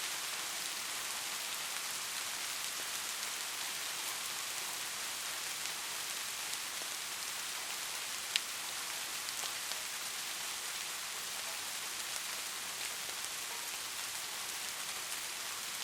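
Steady rain falling, an even hiss with scattered drop ticks and one sharper tick about halfway through.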